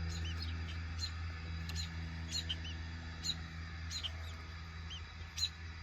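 Bird chirping: short, high-pitched chirps repeated about twice a second, over a steady low hum.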